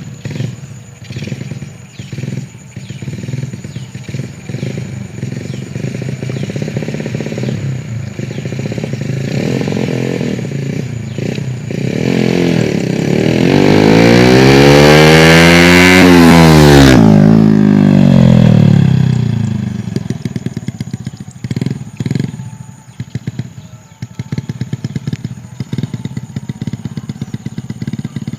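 Honda Supra X 100's single-cylinder four-stroke engine running through a Kawahara aftermarket exhaust while riding. About halfway through it revs up to its loudest, then the pitch falls back; the rest is steady low-rev running.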